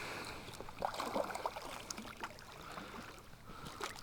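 Light water splashing and trickling close to a kayak, with scattered small clicks and knocks.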